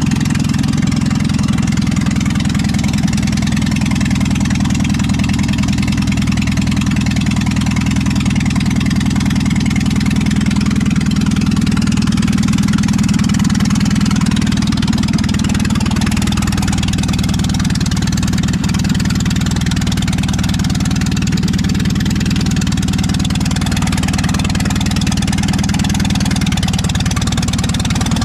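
Carbureted engine idling on choke just after a cold start, warming up. Its idle sags a little past the halfway point and picks back up near the end.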